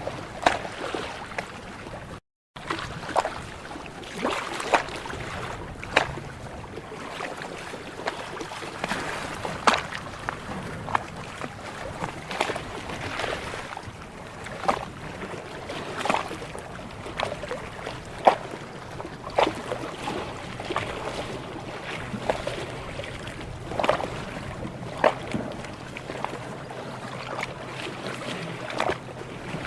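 Small ocean waves lapping and slapping, with sharp splashes about once a second over a steady wash of water. The sound cuts out for a moment about two seconds in.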